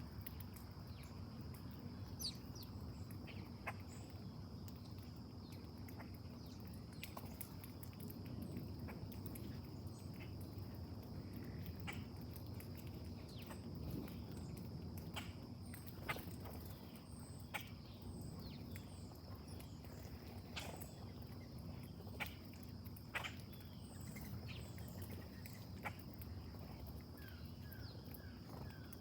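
Faint steady high-pitched insect drone, with scattered short bird chirps and clicks over a low rumble.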